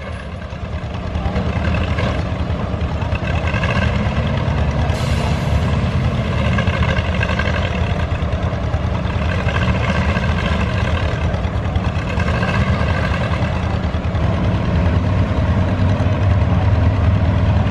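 Heavy tractor engine idling steadily, a continuous low rumble.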